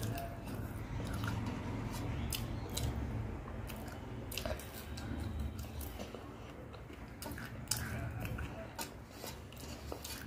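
Close-miked chewing and eating mouth sounds, with many short wet clicks and smacks.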